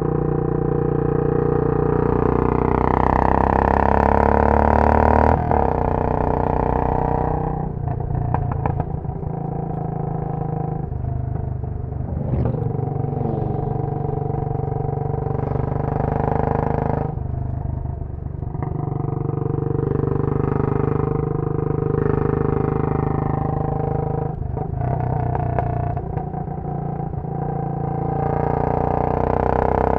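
Royal Enfield Bullet 500's single-cylinder four-stroke engine, heard through a Punjab long bottle silencer while riding. It climbs in pitch under throttle several times and falls away between climbs as the throttle closes or gears change. Short crackles come in around the drops.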